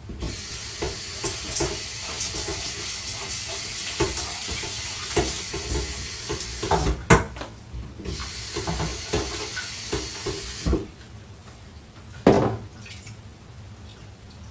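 Kitchen tap running water into a metal rice-cooker pot of rice, with knocks of the pot against the sink. The water stops for about a second, runs again, and is shut off a little before eleven seconds in. A single thump follows about a second and a half later.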